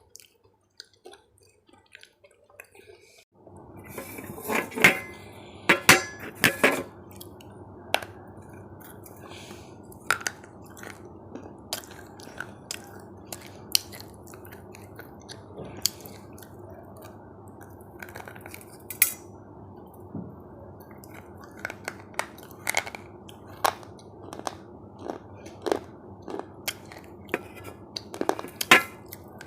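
Close-miked sharp clinks and taps of cutlery against dishes, scattered all through, with a loud cluster about five seconds in. A steady low hum comes on suddenly a few seconds in.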